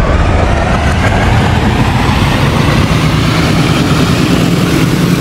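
Passenger train coaches passing close by: a loud, steady rumble and rush of wheels on the rails, with a low steady hum joining about two seconds in.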